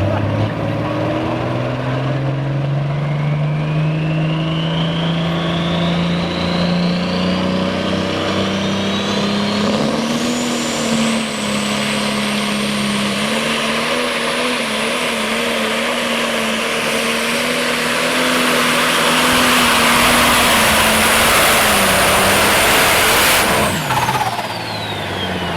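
Turbocharged diesel super stock pulling tractor under full power down the track. The engine note climbs steadily for about ten seconds and then holds, with a turbo whine rising to a high pitch. About 23 seconds in the engine is cut back suddenly and the turbo whine falls away as the run ends.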